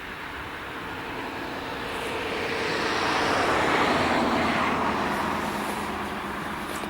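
A passing vehicle: engine and rushing noise swell to a peak about halfway through, then fade away.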